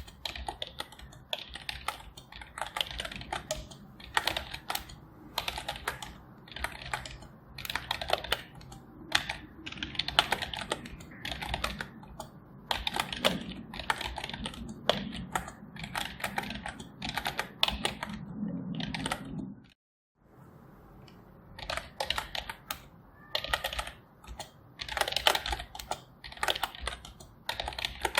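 Computer keyboard typing: runs of quick keystroke clicks broken by short pauses, with the sound dropping out completely for a moment about two-thirds of the way through.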